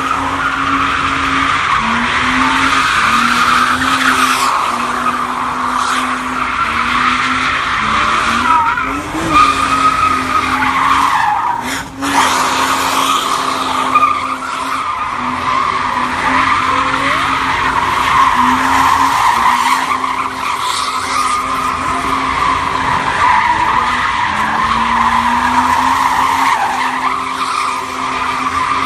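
A car spinning its tires at a sideshow: a continuous tire squeal over an engine held at high revs, its note dipping briefly and recovering every second or two.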